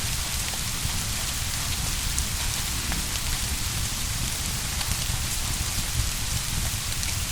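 Steady rain ambience, an even downpour with faint scattered clicks.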